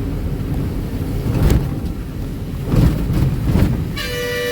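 Ashok Leyland Ecomet 1214 truck driving, its engine and road rumble heard in the cab, with a few brief thuds. A vehicle horn starts sounding a steady tone near the end.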